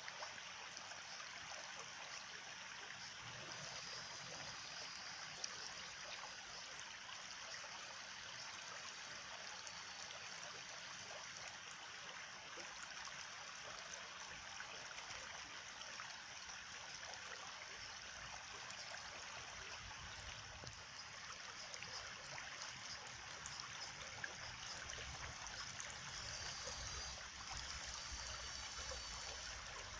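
A small stream trickling and gurgling steadily over stones.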